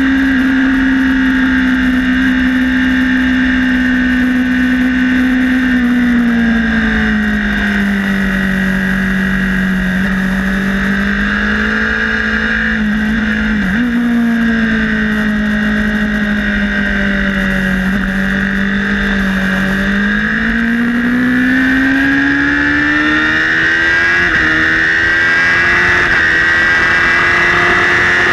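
Onboard sound of a Honda CBR1000RR's inline-four engine running at high revs on track, with wind rush. The engine note sags and climbs smoothly as the bike goes through the corners, with a brief dip and recovery about halfway through, then rises again towards the end.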